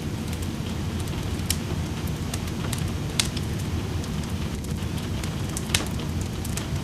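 Wood fire in a fireplace crackling, with a few sharp pops (the loudest about three seconds in and again near the end), over a steady low hiss of rain.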